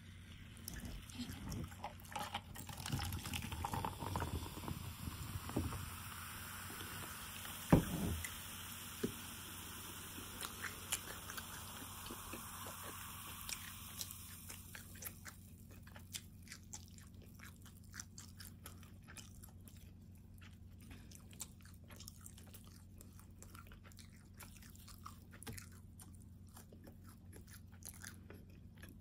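Close-up chewing and biting of a meat lover's calzone: wet mouth sounds and small crunches of crust. There is a sharp click about eight seconds in, and the sound is busier in the first half than in the quieter, sparser second half.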